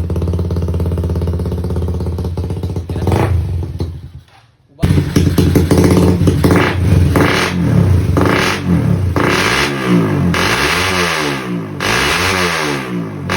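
Motorcycle engine, a Rusi converted with a Raider cylinder head, running through a loud aftermarket pipe. It idles steadily, briefly drops away about four seconds in, then comes back and is revved again and again, the pitch rising and falling roughly every second and a half.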